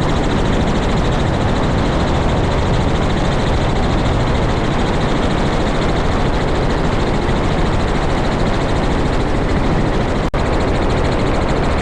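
Helicopter running steadily: a loud, continuous noise with a strong low rumble. It cuts out for an instant about ten seconds in.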